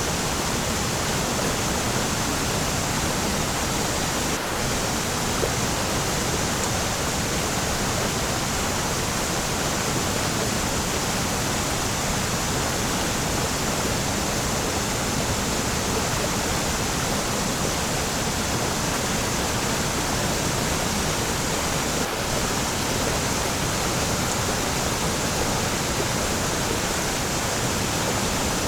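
Waterfall rushing: a steady, unbroken wash of falling water, even across low and high pitches.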